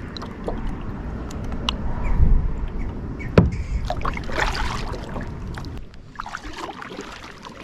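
Kayak being paddled: paddle strokes and water splashing and lapping at the hull, with a single sharp knock about three and a half seconds in and a low rumble underneath.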